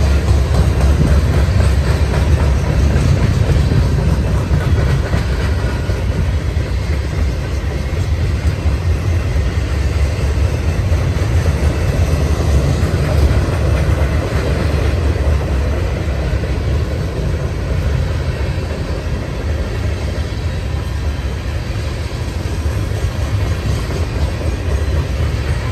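Freight train cars (tank cars, covered hoppers and boxcars) rolling past at close range: a steady, heavy rumble of steel wheels on the rails with a little clickety-clack.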